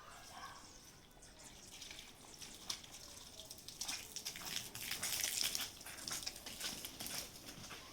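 Water splashing and trickling, with many small clicks and drips, growing louder about halfway through.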